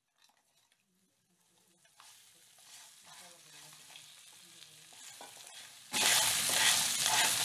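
Crab pieces frying in hot oil with onion and tomato, stirred with a wooden spatula. Near silence at first, then a faint sizzle from about two seconds in that suddenly turns loud and steady about six seconds in.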